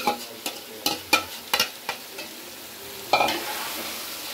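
A spoon knocking and scraping against a dish and a metal pot as boiled mince is tipped into frying masala: about six sharp knocks in the first two seconds, then a steady sizzle of the frying.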